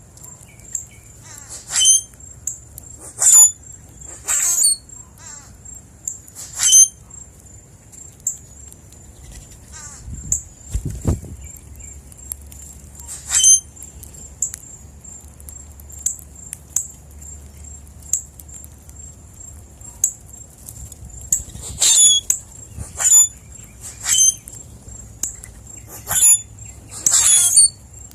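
Wild birds calling with short, sharp, high-pitched calls every second or two, over a faint steady high-pitched whine. A single low thump comes about eleven seconds in.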